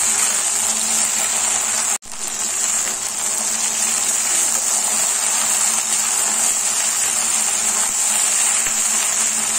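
Okra and sliced onions sizzling steadily in hot mustard oil in a metal kadhai, at the end of the frying stage with the onions turned pink. The sound cuts out for an instant about two seconds in.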